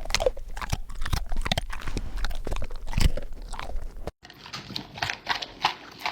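A dog chewing and crunching on crunchy food in quick, irregular bites. A low background hum stops suddenly about four seconds in while the crunching goes on.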